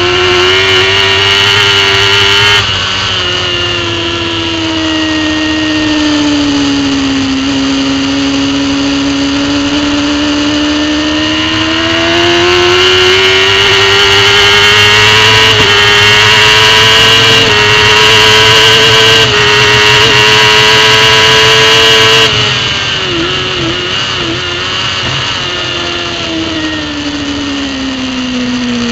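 Racing superbike engine heard from onboard at high revs under racing load. Its pitch sinks over the first several seconds, then climbs steadily for about fifteen seconds with a few small steps along the way. About three quarters of the way through it suddenly gets quieter, dips briefly in pitch a few times, then sinks away.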